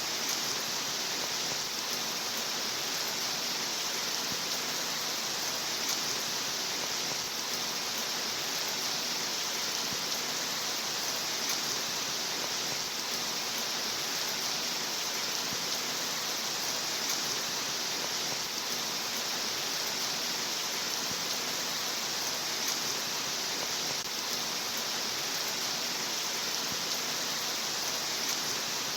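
Rain falling steadily: an even, unchanging hiss.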